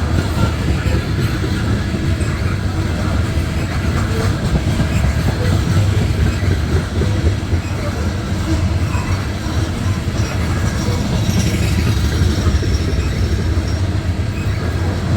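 Loaded coal hopper cars of a long freight train rolling steadily past close by: a heavy continuous rumble with the wheels clicking along the rails.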